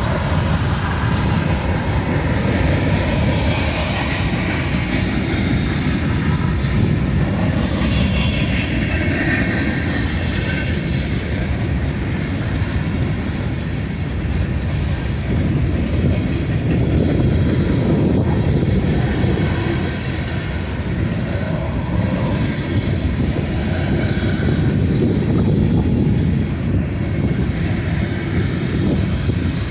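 Freight train cars rolling past: a steady, loud rumble of wheels on rail, with a faint high ringing over it.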